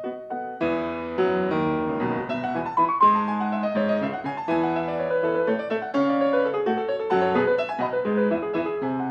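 Solo piano playing classical music. Light, separate notes give way about half a second in to fuller, louder chords over a low bass line.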